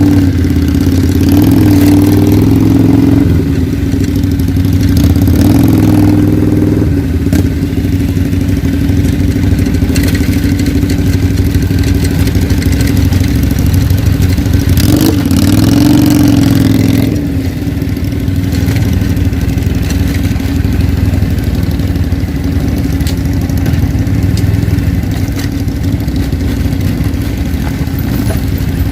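Italjet Buccaneer 250i motorcycle engine running steadily, with a few brief small rises in pitch as the throttle changes.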